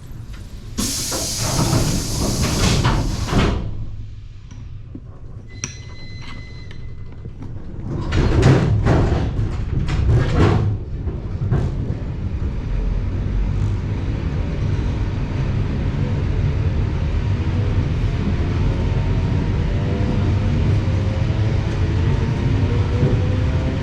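Suburban electric train at a stop: a burst of pneumatic hiss, a short electronic beep, then the sliding doors thudding shut. From about halfway through, the traction motors whine, slowly rising in pitch over a low rumble as the train pulls away.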